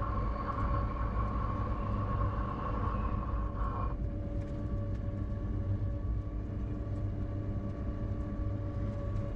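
Electric mountain train running on rails: a steady rumble with a humming tone. It is brighter and louder while the train is in a tunnel gallery, and eases suddenly about four seconds in as the train comes out into the open.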